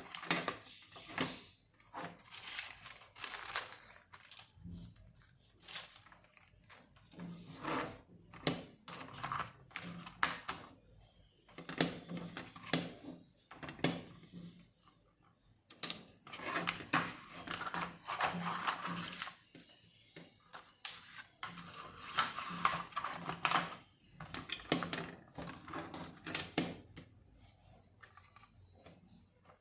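A drawing tool scratching across paper in irregular bursts of short strokes, with brief pauses between them.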